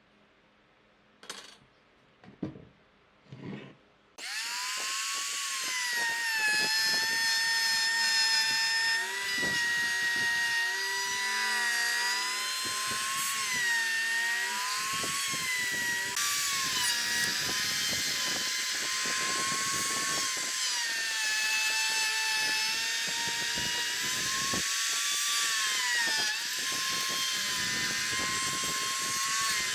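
A few short knocks, then an electric power tool starts about four seconds in and runs on, cutting wood, its high whine dipping and recovering again and again as it takes load.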